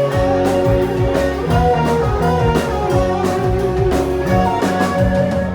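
Live band playing an instrumental passage: a guitar carries the melody over bass and a drum kit keeping a steady beat.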